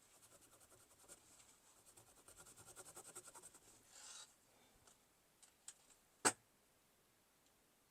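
Faint, rapid scratching strokes of a dirty 50p coin being rubbed to clean off tarnish, for about four seconds. Then a few light ticks and one sharp click about six seconds in.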